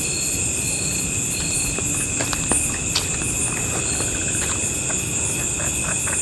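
Dense evening chorus of crickets and other insects: several steady high trills layered together, with one chirp pulsing about twice a second that stops within the first two seconds. A few short sharp clicks come through it, the strongest about two to three seconds in.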